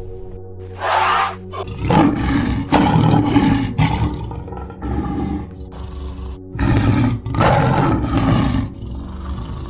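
Big-cat roars and growls come in a series of rough bursts, over faint background music. A shorter, brighter call comes about a second in.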